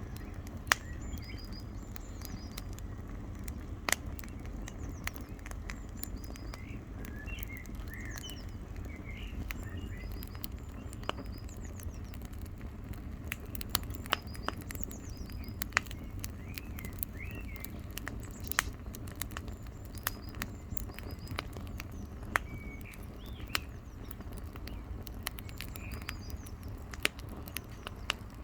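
Campfire wood crackling with irregular sharp pops and snaps over a steady low rumble, while birds chirp in the background.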